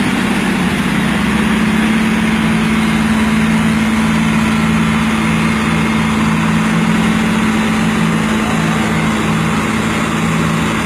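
Heavy vehicle engine running steadily at constant speed, a loud even hum with a strong low drone.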